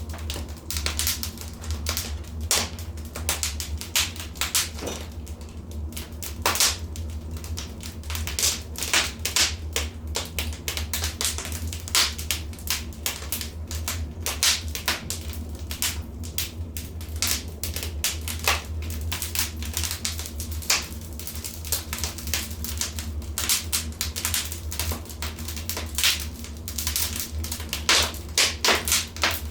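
Wood fire in a fireplace crackling, with irregular sharp pops and snaps, some louder ones clustered near the end, over a steady low rumble.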